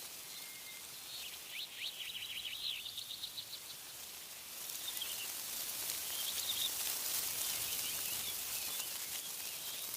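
Small birds calling, with a quick run of repeated chirps in the first few seconds and a few shorter calls later. Underneath is a steady high hiss of wind in tree leaves, which swells about halfway through.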